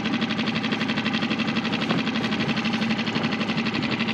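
Small outboard motor running steadily at low speed, an even fast pulsing over a constant hum.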